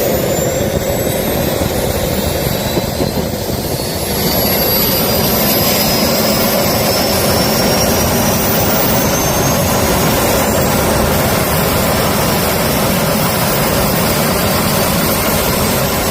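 Jet engine running: a steady loud rush with a high whine that slowly climbs in pitch, getting a little louder about four seconds in. The engine has crash damage, a bent bracket and a bolt sheared out of its housing, yet it runs okay.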